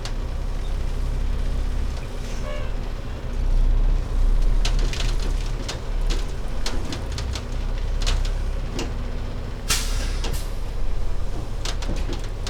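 Heavy truck's diesel engine running with a low rumble and scattered clicks and rattles, and a short hiss of air about ten seconds in.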